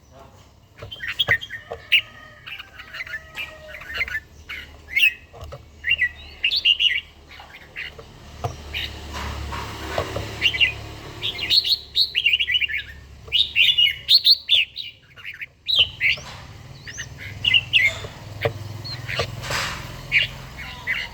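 Red-whiskered bulbuls singing: many short whistled phrases, one after another.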